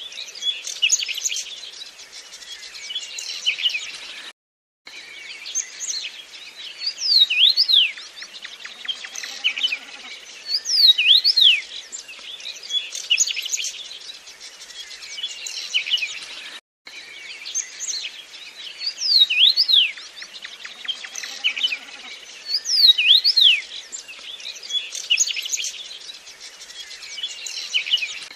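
Birdsong: a phrase of quick, sharp, high whistled notes repeating about every four seconds, over a softer chatter of other chirps, with two brief cuts to silence.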